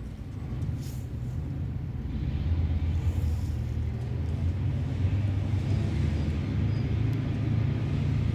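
Steady low rumble, loudest in the bass, slightly louder from about two seconds in.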